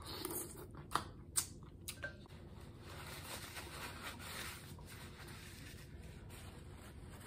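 Close-miked eating sounds of seafood being chewed: three sharp mouth clicks and smacks in the first two seconds, then soft paper rustling as hands are wiped with a paper towel.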